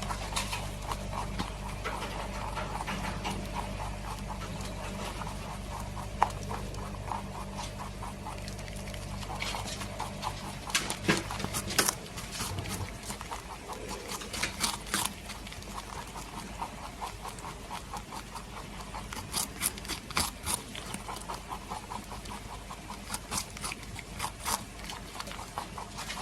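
A pet animal making short, repeated sounds over a steady low hum; the hum stops about twelve seconds in.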